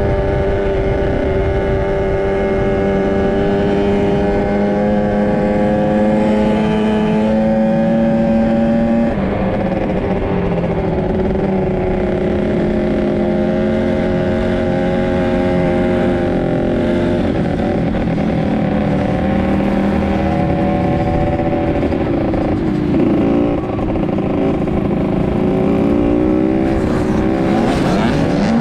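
Dirt bike engine running hard at steady high revs, its pitch stepping abruptly a few times as it shifts gear. Near the end the revs rise and fall in quick swings.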